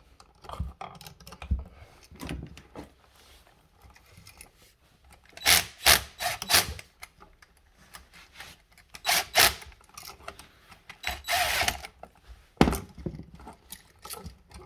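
DeWalt cordless impact driver run in several short bursts, backing out the terminal screws of an electrical receptacle, with clicks and rattles of handling between the bursts.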